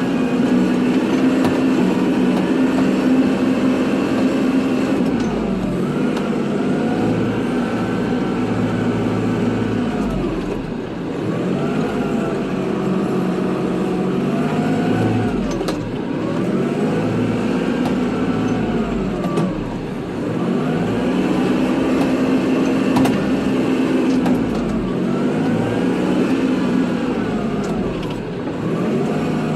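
Kubota tractor engine running under load while plowing snow. Its pitch rises and falls over and over, about every four to five seconds, as it works back and forth.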